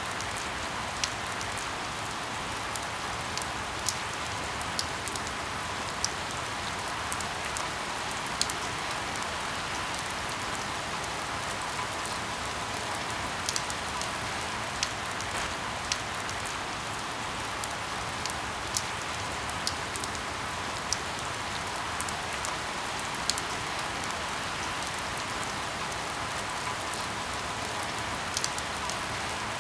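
Steady rain hiss with short, sharp crackles and pops of burning firewood scattered through it, roughly one every second or so.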